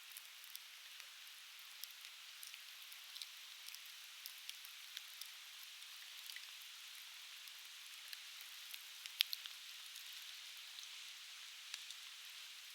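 Conifer firewood burning in a campfire, crackling with frequent sharp pops over a steady hiss; the loudest pop comes about nine seconds in.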